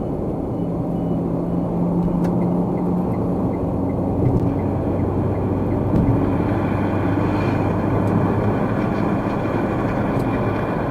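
A car being driven, with steady road and engine noise and a low hum. A short run of faint, evenly spaced ticks comes about two seconds in.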